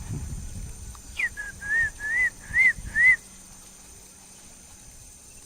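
An animal calling in a run of five short whistled notes, about two a second, each rising and falling. The run starts about a second in and stops after about two seconds.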